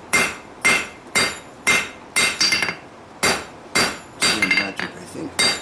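Hand hammer striking hot steel on an anvil while forging a straight razor blank from a rake tine: about two blows a second, each with a short metallic ring, and a brief pause a little past halfway.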